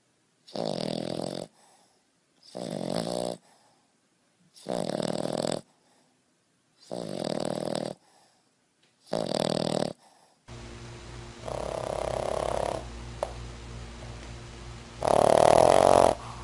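A dog snoring, five long snores about two seconds apart. Then a steady low hum with a few louder bursts, the loudest near the end.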